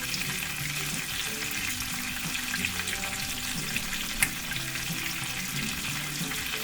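Panko-breaded chicken cordon bleu sizzling steadily as it sears in a skillet, with fine crackling throughout. A single sharp click comes about four seconds in.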